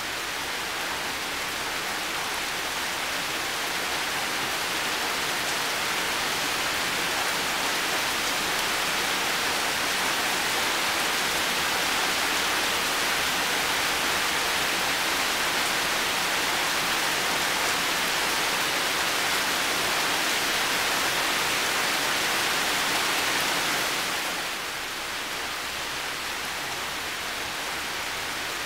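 Heavy rain falling steadily, an even dense hiss that swells slowly over the first several seconds and drops back a little a few seconds before the end.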